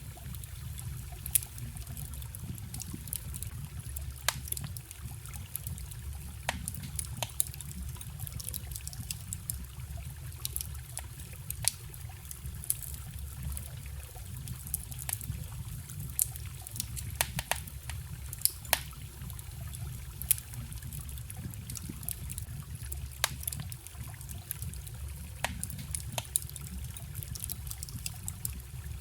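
Campfire crackling, with sharp irregular pops and snaps over the steady low rush and trickle of a forest stream.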